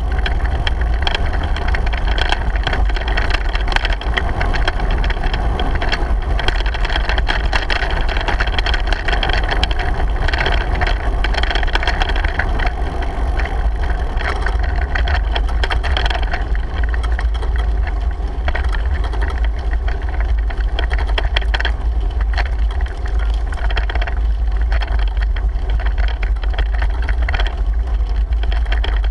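Steady low wind rumble over the microphone of a bicycle ride, with frequent small rattles and clicks throughout.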